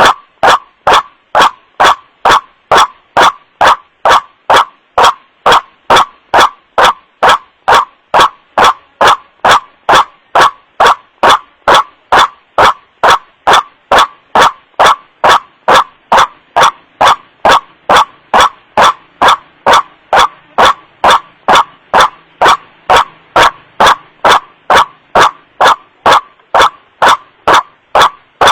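White-breasted waterhen (kuruak) calling 'wak-wak' in a steady, even series of about two calls a second. The calls are loud and distorted by clipping, as in an amplified bird-lure recording.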